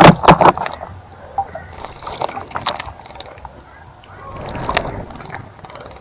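A bird bathing in a birdbath, splashing water with its wings. A burst of loud splashes comes at the start, and lighter bouts of splashing follow about two and five seconds in.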